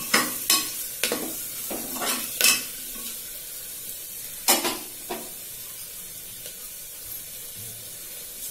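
Onion and spice paste frying in oil in a pressure cooker, being browned. A spoon scrapes and knocks against the pot about eight times in the first five seconds. Then the frying goes on as a steady sizzle.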